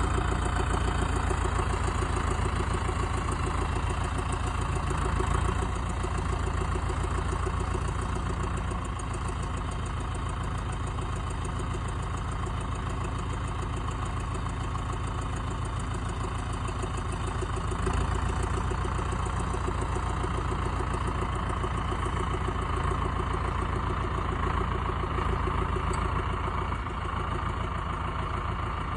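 Valmet 655 tractor's diesel engine running with a steady low rumble, its note and level shifting slightly a few times.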